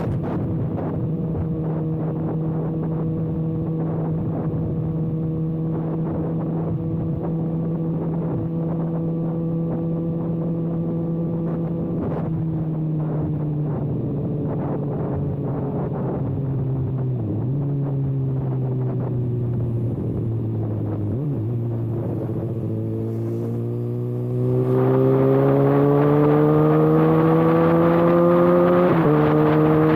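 Kawasaki ZX-6R inline-four with its exhaust canister removed, running at a steady cruise, then easing off so its pitch sinks slowly. About two-thirds of the way through it gets louder and rises steadily under acceleration, and near the end it drops a step in pitch at an upshift.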